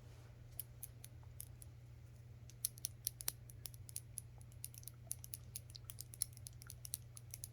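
Glass nail polish bottles being handled, with many quick, light, irregular clicks and taps of fingernails and glass.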